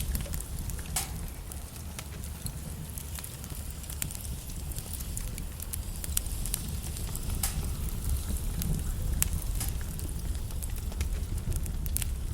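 Logs burning in a fireplace, crackling: sharp, irregular pops and snaps over a low, steady rumble of the flames.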